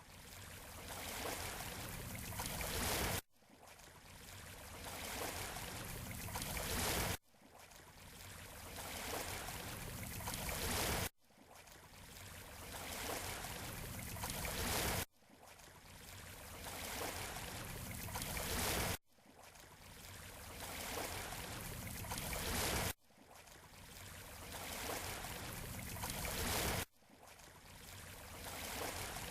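Surf washing on a beach shore: a rushing swell that builds for about four seconds and then cuts off abruptly, over and over at an even pace, like a short wave recording played on a loop.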